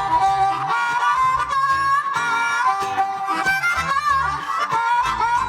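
Live band playing an instrumental passage: a sustained, bending lead melody over plucked strings, with low bass notes underneath.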